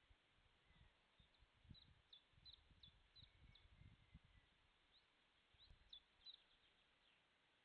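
Faint high bird chirps, short quick notes in two loose runs, the first from about one to three and a half seconds in and the second from about five to six and a half seconds in, over soft low thumps.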